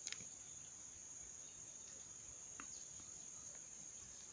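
Faint, steady high-pitched trill of crickets, with a couple of small clicks, one at the start and one about two and a half seconds in.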